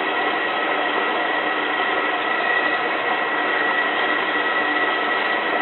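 Hotpoint 9534A washing machine filling with water at the start of a boil wash: a steady rushing hiss of water coming in, with a constant high-pitched whistle over it.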